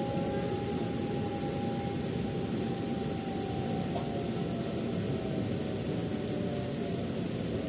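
Metro train running, heard from inside the car: a steady rumble of wheels on rails with a faint whine that slowly falls in pitch.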